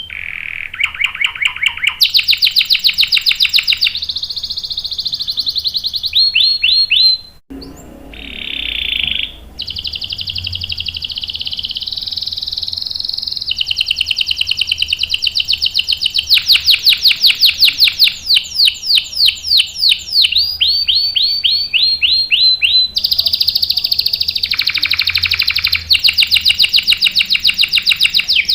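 Domestic canary singing long, rapid rolling trills in back-to-back phrases, with a brief break about seven seconds in.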